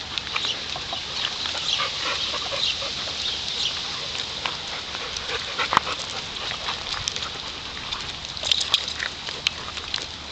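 Animal sounds: many short, high chirps and calls with dogs among them, and a few sharp clicks.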